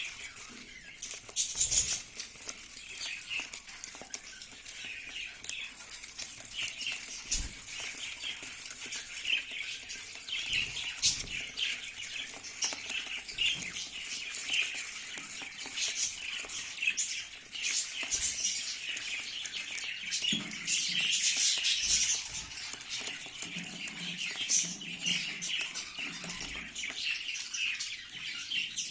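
A group of young budgerigars chirping and chattering without a break, with scattered sharp clicks and wing flutters.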